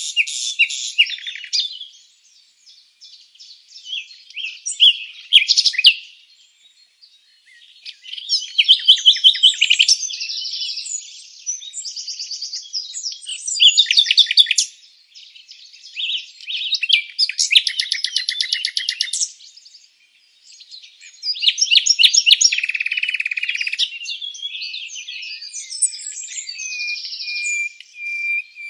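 Songbirds singing: a run of chirps and rapid trilled phrases with short pauses between them. Near the end comes a held, even whistle.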